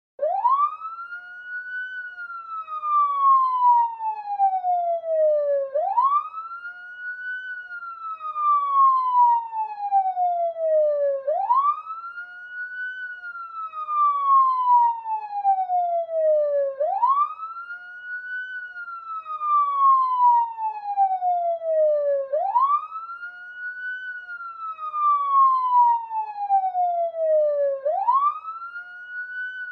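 Police siren sounding a slow wail: each cycle climbs quickly in pitch, then falls slowly for about four seconds, repeating about every five and a half seconds, five times over.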